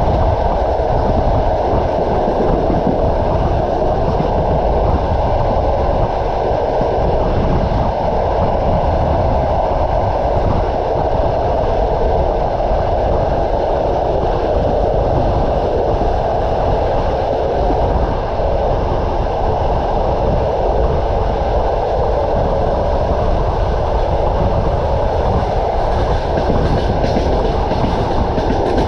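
Steady running noise of a moving passenger train heard from on board: a rumble with the knocking of wheels on rail joints. A few sharper clicks come in near the end.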